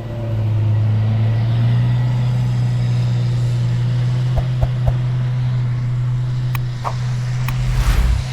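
A motor vehicle's engine running steadily, with a few sharp knocks or clanks about halfway through and again near the end.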